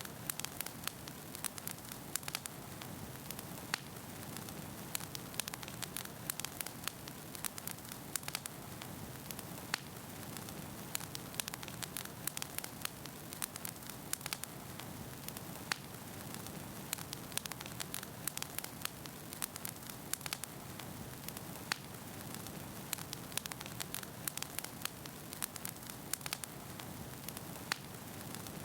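Wood fire burning in a fireplace: a steady low rush of flames with many sharp, irregular crackles and pops from the burning logs.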